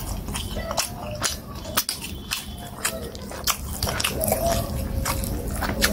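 Close-miked wet mouth sounds of a person chewing plantain fufu and soup-covered meat, with frequent irregular clicks and smacks.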